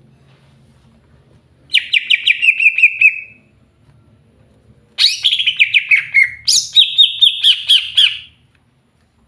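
Green leafbird (cucak hijau) singing two fast trilled phrases of rapid repeated notes, each sliding down in pitch. The first is short, about two seconds in; the second is longer, starting about five seconds in, with a jump back up partway through.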